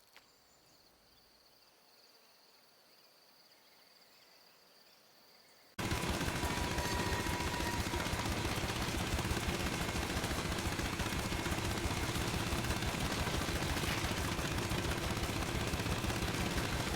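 Near silence with a faint high steady tone, then about six seconds in a loud, rapid, steady mechanical rattle cuts in suddenly and keeps going.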